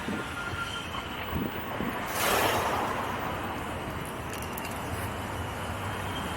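Wind rushing over the microphone of a rider on an electric unicycle, mixed with street traffic, with a louder gust about two seconds in.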